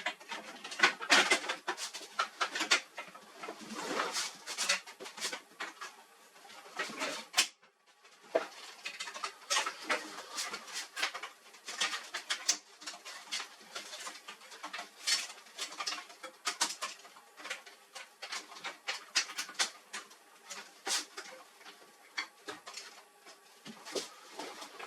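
Irregular clicks, taps and rattles of hands and tools handling a laser printer's plastic and metal parts during disassembly, with a brief break about seven and a half seconds in.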